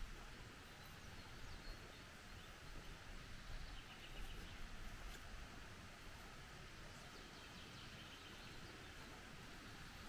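Faint birdsong: short, thin chirps in quick series, heard twice, over a steady low hiss and rumble.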